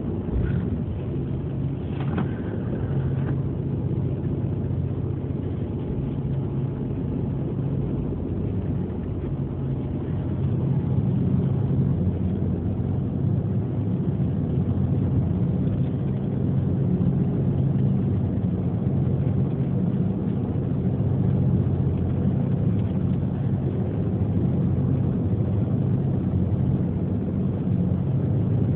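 A ferry's engines droning steadily, a low hum that grows a little louder about ten seconds in.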